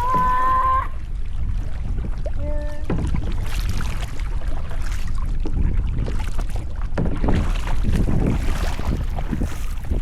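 Kayak paddling: water swishing and splashing with irregular paddle strokes, over a low rumble of wind on the microphone. Two short pitched calls sound near the start.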